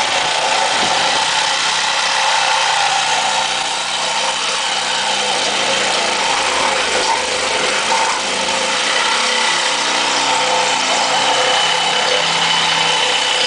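Reciprocating saw (Sawzall) running steadily while cutting.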